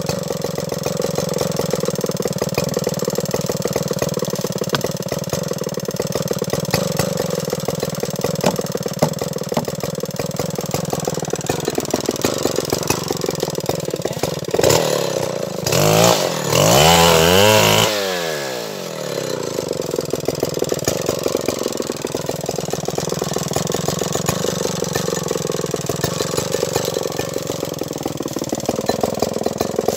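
Stihl 070 two-stroke chainsaw running steadily, then revved up hard about halfway through for a few seconds before dropping back to its steady running; it starts to rev again at the very end.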